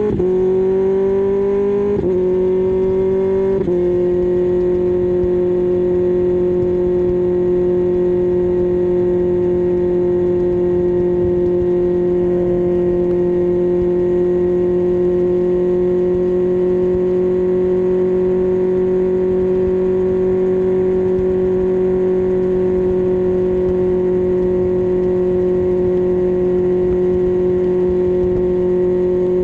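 2024 Kawasaki ZX6R inline-four engine pulling up through the gears. Its pitch climbs and drops back at a shift twice in the first four seconds, then holds a steady cruise for the rest of the time.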